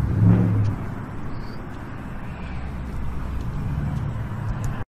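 Car engine sound: a brief loud low engine note at the start, then a steady low rumble that grows louder over the last couple of seconds before cutting off abruptly.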